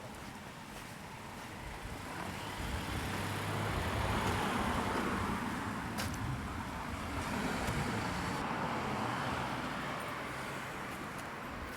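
Road traffic: cars driving past, the sound swelling as one passes about four seconds in and another about eight seconds in.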